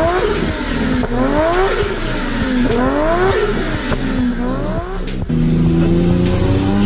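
Car engine revving: its pitch climbs and falls back four times in quick succession, then after an abrupt change about five seconds in it runs on, slowly climbing in pitch.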